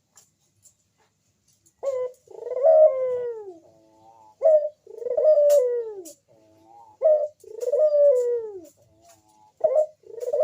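Crossbred puter dove (ringneck/Barbary-type dove) cooing its manggung song. After about two seconds of quiet, the same phrase comes four times, each a short sharp note followed by a long, falling coo, with a softer trailing note between phrases.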